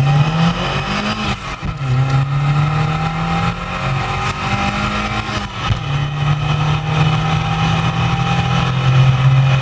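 Opel Manta Guy Fréquelin's 1.8-litre eight-valve four-cylinder engine under full throttle in a 0 to 100 km/h run, heard from inside the cabin. Its pitch climbs through the gears and drops sharply at two upshifts, about one and a half seconds in and a little past halfway.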